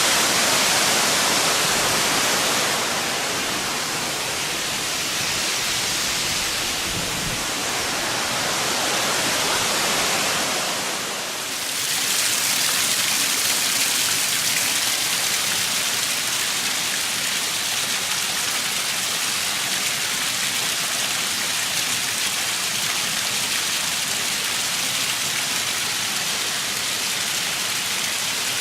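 Waterfall rushing steadily, a dense hiss of falling water that dips briefly about eleven seconds in.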